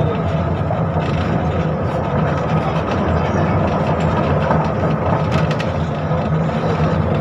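Onboard ride noise of a KTM-5M3 (71-605) tram: a steady low rumble from the wheels and running gear, with a few short clicks and rattles from the car body around the middle.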